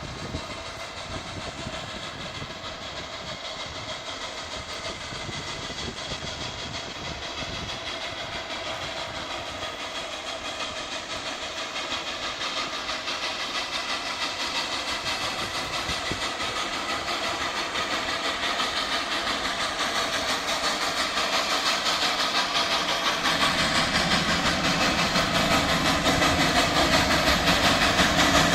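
Texas State Railroad steam locomotive No. 28 and its train approaching, the rolling of wheels on rail growing steadily louder throughout.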